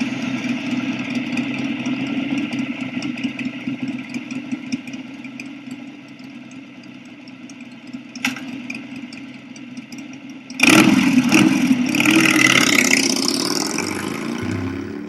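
Motorcycle engine running steadily at idle, then suddenly much louder about ten and a half seconds in, as it is revved or pulls away, easing off toward the end.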